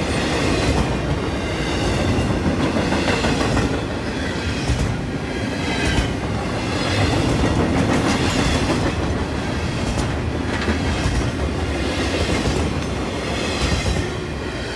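Double-stack intermodal freight train's well cars rolling past close by, with a continuous heavy rumble and steel wheels clicking irregularly over rail joints.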